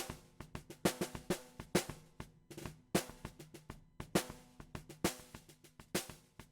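Acoustic drum kit recording playing a steady groove, heard as it is mixed through Acustica Audio Purple 3.5 plugins. Strong snare and kick hits fall about once a second, with lighter hi-hat ticks between them. The playing pauses briefly near the end.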